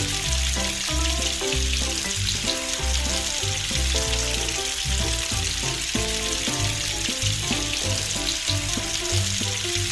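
Steady frying sizzle over a background music tune with a regular bass beat.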